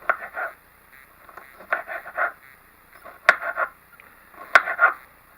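Kitchen knife chopping a jalapeno on a cutting board: short runs of two or three quick cuts, about every second and a half.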